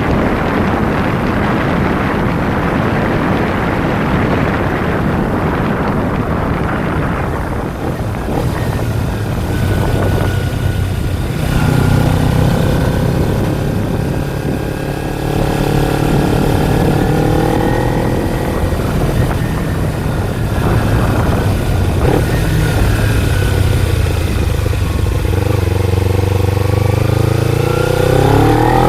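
Kawasaki Ninja 250 parallel-twin engine running under way. Wind rush over the microphone dominates the first several seconds. After that the engine's steady drone comes through with small shifts in pitch, and it rises sharply as the rider revs up near the end.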